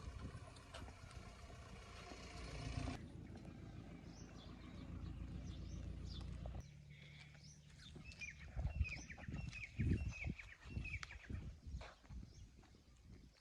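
An engine running steadily, its pitch changing abruptly about three seconds in, and cutting out a little past halfway. After that, short repeated chirping calls and a few dull knocks.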